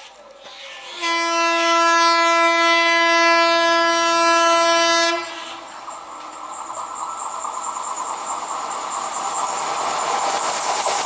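An Indian Railways high-speed train sounds its horn in one long single-note blast of about four seconds, starting about a second in. Then the rumble of the train on the rails rises steadily as it approaches.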